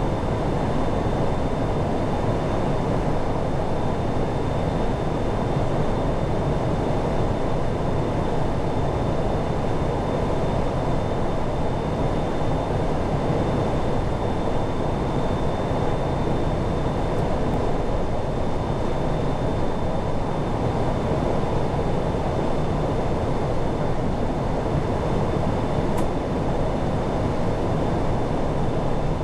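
Steady flight-deck noise of an Airbus A340-600 on approach: an even rush, with a faint high steady tone above it.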